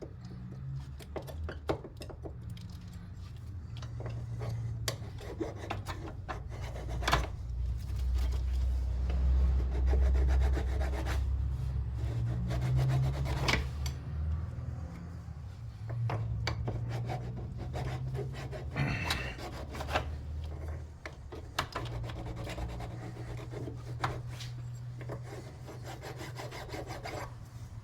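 Hand file rasping back and forth over a car battery's terminal post in many irregular strokes, cleaning up and reshaping the corroded, damaged post to a clean edge.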